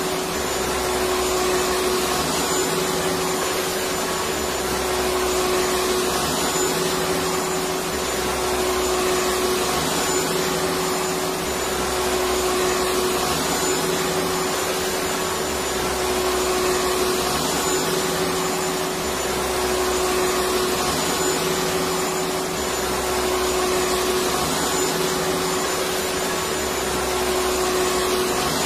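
Electric vacuum cleaner running continuously: a steady rush of air with a constant motor whine and a low rumble that swells and fades every couple of seconds.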